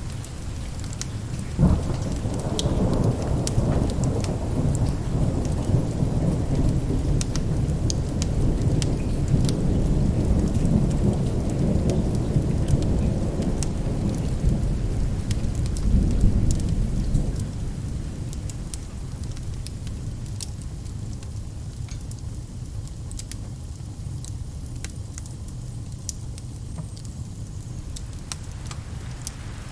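Thunder: a sharp crack about two seconds in opens into a long deep rumble, which swells again around sixteen seconds and then dies away. Steady rain falls throughout, with scattered small clicks on top.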